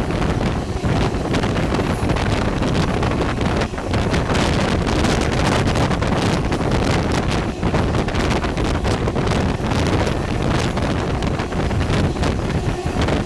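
Wind buffeting the microphone aboard a moving passenger train, loud and steady, with the train's running noise underneath.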